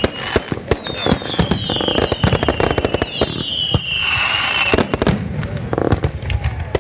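Fireworks going off: a rapid run of bangs and crackles, with a whistle sliding down in pitch that fades about four and a half seconds in.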